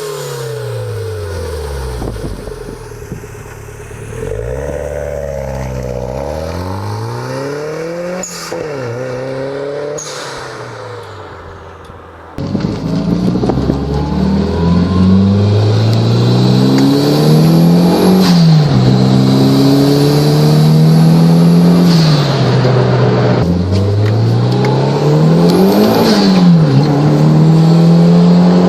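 Four-cylinder car engine revving hard, its pitch climbing and then dropping sharply again and again as it is run up through the gears. About twelve seconds in, it cuts abruptly to a louder stretch of full-throttle acceleration with upshifts.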